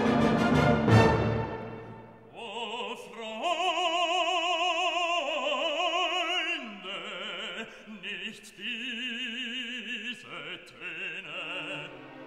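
Operatic music: an orchestral chord fades over the first couple of seconds, then a solo operatic voice sings long held notes with a wide vibrato.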